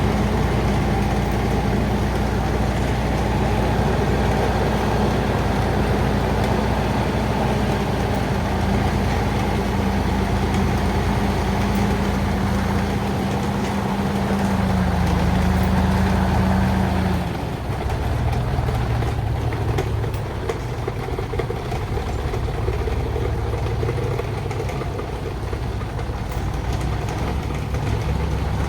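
An old truck's engine running steadily. About two-thirds of the way through, its pitch rises slightly and then drops to a lower, steady speed as the engine eases off.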